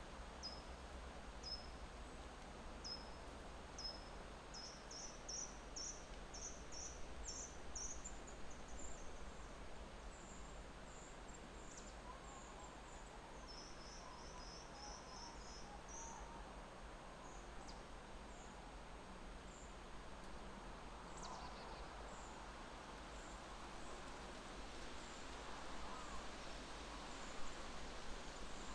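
Quiet outdoor ambience: a bird repeating short, high chirps that speed up and climb in pitch over the first several seconds, then carry on at a steady high pitch, with fainter calls from other birds and a low steady rumble underneath.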